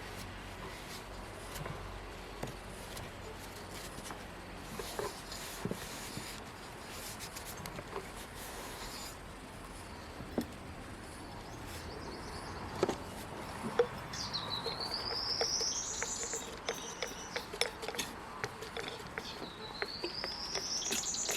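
A bird calls twice, each call a long rising whistle, over scattered light clicks and taps.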